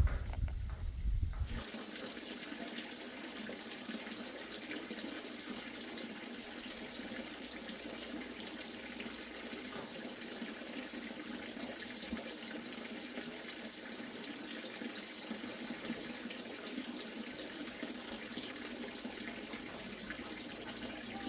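Steady running water, like a tap or a stream pouring into a basin, following a low rumble in the first second and a half.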